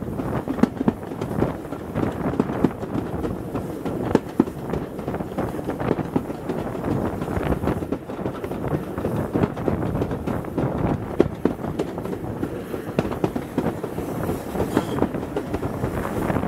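Moving train heard from an open passenger-coach window: a steady rumble of wheels running on the track, with many sharp clicks and knocks from the wheels going over the rails.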